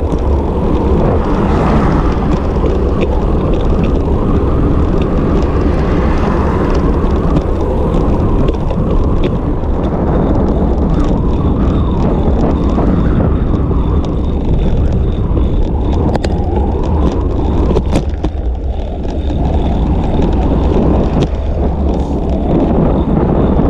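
Steady rush of wind and road noise while riding a bicycle, the wind buffeting the camera's microphone, with scattered small clicks and knocks.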